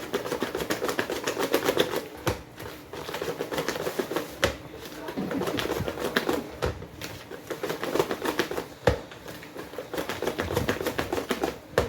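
Balloon whisk beating thick cassava cake batter in a bowl: quick, irregular clicking and scraping of the wires against the bowl.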